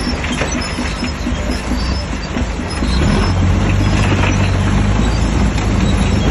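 Diesel engine of a Shantui DH17C3 bulldozer running hard, getting louder about three seconds in.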